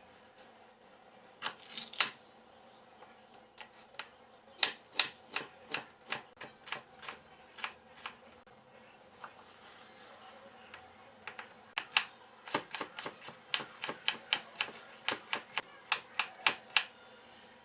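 Kitchen knife chopping on a cutting board: runs of sharp, irregular taps, two or three a second, with a pause between the two runs.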